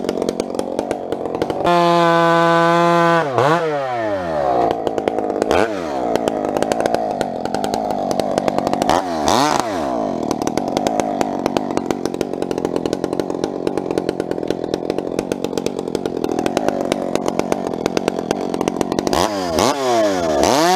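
Two-stroke chainsaw bucking firewood. It runs at a high, steady wide-open pitch about two seconds in. Then the pitch drops as it goes into the cut and stays lower and rougher under load, with a couple of brief rev dips and rises. It climbs back to the high free-running pitch near the end.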